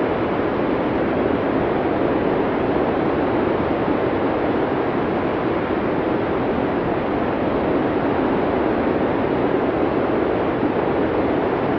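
Steady blizzard wind: an even, unbroken rushing noise with no gusts, breaks or separate sounds.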